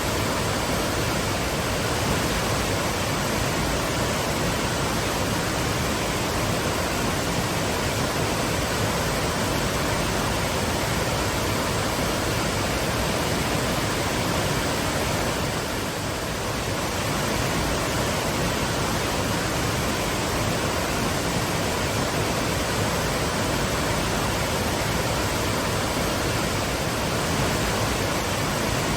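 Waterfall pouring steadily, a constant even rush of falling water, with a slight momentary dip about halfway through.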